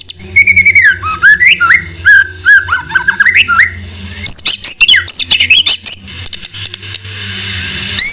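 White-rumped shama (murai batu) singing a fast, varied run of whistled slurs and quick rattling notes. About six seconds in, a harsh hiss swells louder for about two seconds. A steady low hum runs underneath.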